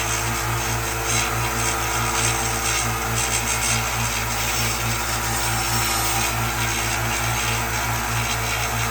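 Harbor Freight belt grinder running steadily with its motor humming in a quick, even pulse, as steel of an axe head is ground against the belt with a continuous rough hiss, grinding the bevel toward a convex edge.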